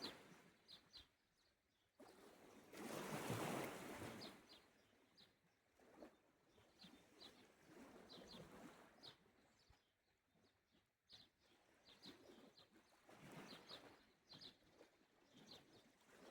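Faint small sea waves washing onto the shore in slow swells, the strongest about three seconds in. A bird chirps short high notes again and again over them.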